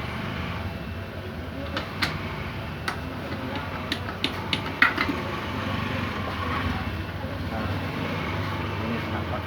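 Light metallic clicks and clinks of motorcycle engine parts being handled and set down during disassembly, several in quick succession a couple of seconds in. Under them runs a steady low rumble of background noise.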